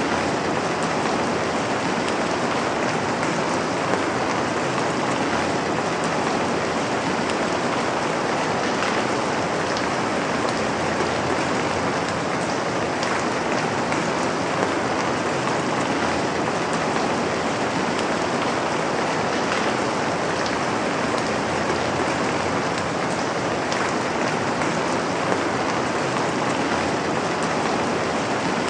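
Steady rain falling, an even hiss with the patter of individual drops scattered through it.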